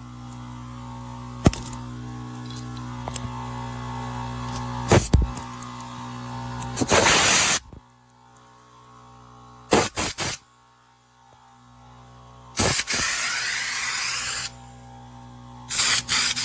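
Nessxa 8-gallon, 1.5 HP oil-free air compressor running with a steady electric hum, its intake muffler fitted with rubber tubing to quiet it. Loud bursts of hissing air break in several times, the longest about seven seconds in and another lasting nearly two seconds around thirteen seconds, with a few sharp clicks between them.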